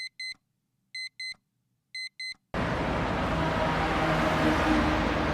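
Electronic beeping: three quick double beeps, one pair a second, each a clear high tone, in dead silence. About two and a half seconds in, a steady outdoor background with a low hum comes in.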